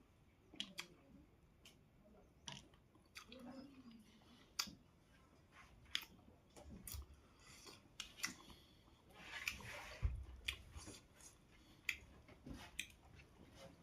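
A person chewing and eating close to the microphone: scattered wet mouth clicks and smacks at irregular intervals, with a short low hum a few seconds in.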